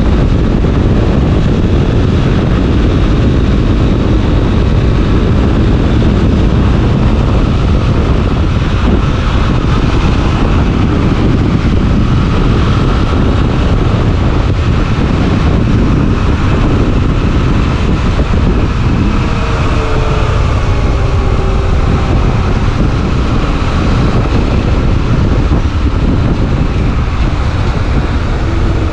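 Honda XRE 300 Rally single-cylinder motorcycle being ridden, its engine running under heavy wind rush on the microphone, with the engine pitch shifting about twenty seconds in.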